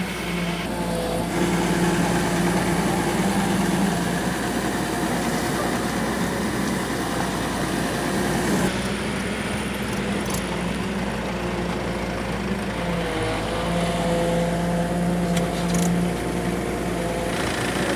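Diesel engine of heavy machinery running steadily, its pitch rising and falling slightly as it works.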